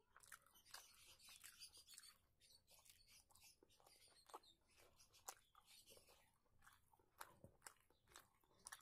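Faint close-up eating sounds of a person chewing a mouthful of rice and curry eaten by hand: many short, wet mouth clicks and smacks, irregular throughout.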